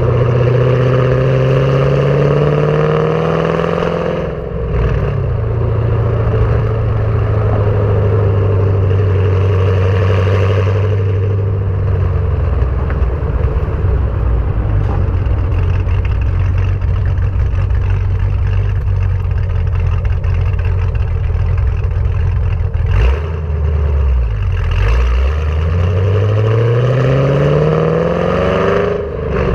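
A Chevrolet Camaro SS's 6.2-litre LS3 V8, breathing through long-tube headers and a Borla ATAK cat-back exhaust, pulling under throttle. The pitch climbs, breaks briefly about four seconds in as it shifts gear, then holds steady at cruise for a long stretch. Near the end the revs dip and rise sharply again before another break.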